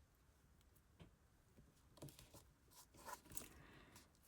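Near silence with a few faint light ticks and rustles, about a second apart, from a crochet hook and yarn being worked by hand.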